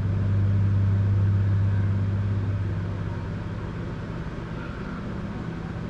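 An engine running with a steady low hum that grows gradually quieter from about halfway through.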